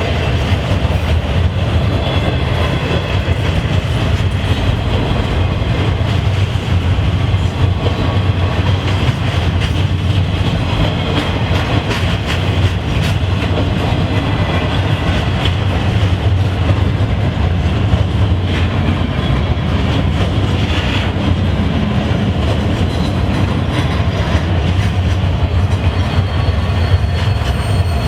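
A train passing close by at speed: steady rumble of railcars with wheels clacking over rail joints.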